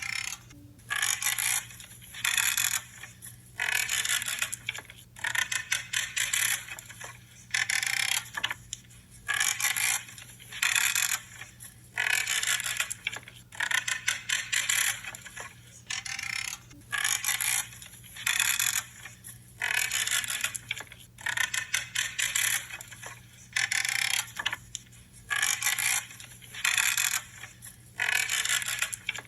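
Pruning shears cutting through branches again and again, a creaking, crunching snip about once a second.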